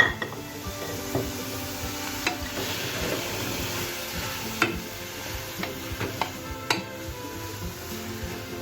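Grated carrots sizzling in hot ghee in a pan as they are stirred, with a few sharp knocks of the spoon against the pan.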